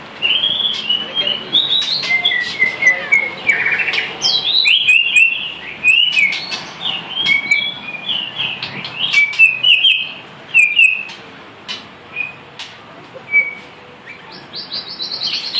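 A murai songbird singing a long, varied run of quick whistles and chirps. The song thins out to a few notes about twelve seconds in, then picks up again near the end. Scattered sharp clicks run through it.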